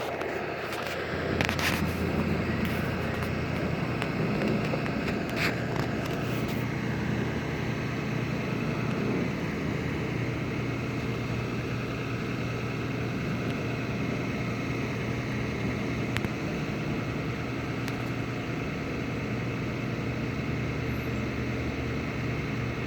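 A steady low hum, like a running motor, sets in about a second in, with a few sharp clicks over the first several seconds.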